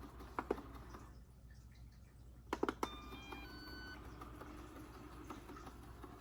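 Lefant M201 robot vacuum giving a short electronic beep tune, a quick run of tones stepping through several pitches, just after a few sharp plastic clicks, over a faint steady hum.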